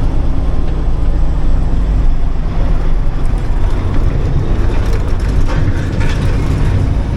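An old, worn grain truck driving: its engine and road noise make a steady low rumble, with a few light rattles about five to six seconds in.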